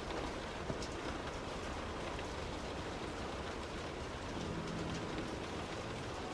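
Heavy rain hitting a moving car, a steady hiss of rain and wet road with scattered ticks of individual drops and one sharp click about a second in. A brief low hum rises out of it about four and a half seconds in.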